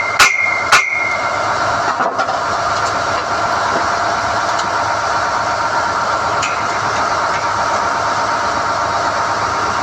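SDH-1600 core drill rig running steadily while NQ drill rods are pulled from the hole. Two ringing hammer blows on steel come in the first second, then only the steady machine noise.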